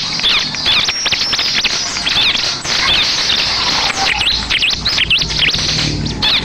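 Bar-winged prinia (ciblek) singing: quick runs of high, sharp chirps, then swooping trilled notes over the last few seconds.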